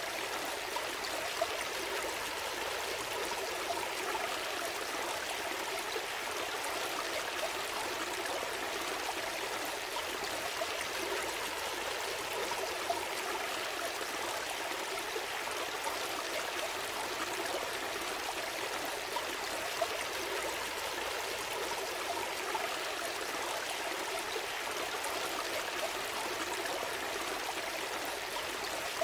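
Gentle forest stream flowing: a steady rush and trickle of water, with a few brief louder splashes.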